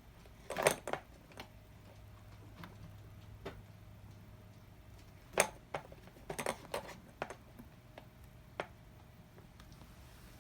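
Scattered light taps and clatters from kittens at play, coming in small clusters, with a sharp knock about halfway through.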